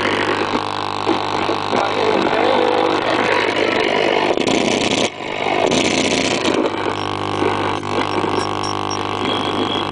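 Old valve radio's loudspeaker giving out a steady low hum under hissing static, with two louder surges of hiss about halfway through, as no broadcast speech comes through.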